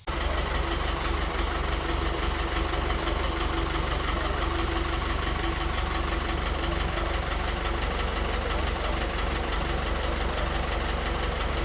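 A restored old car's engine idling steadily, with a rapid, even firing pulse.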